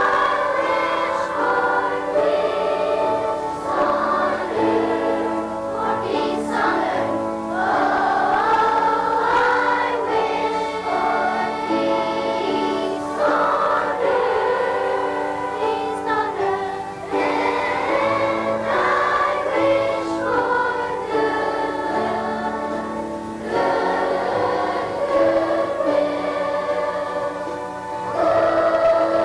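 Elementary school children's choir singing a Christmas song with instrumental accompaniment.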